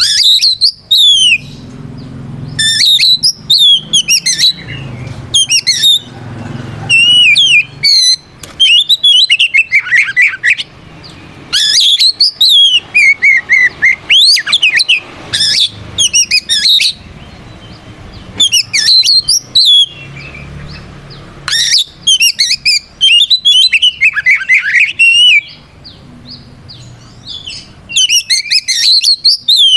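Oriental magpie-robin (kacer) singing loudly in repeated bursts of varied whistles, fast chirps and swooping notes, with short pauses between phrases. It is the full, loud 'ngeplong' challenge song a male uses to call out a rival.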